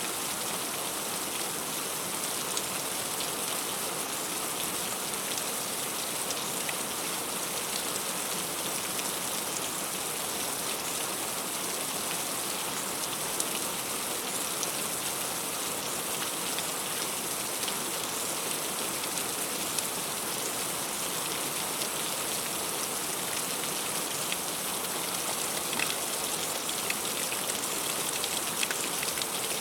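Heavy rain falling steadily on a fruit tree's leaves: a dense, even hiss full of small drop taps.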